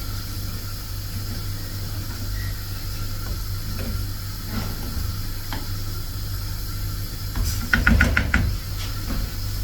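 Pot of rice on the boil on the stove, hissing over a steady low hum, with scattered light clicks and a quick run of about five knocks about eight seconds in.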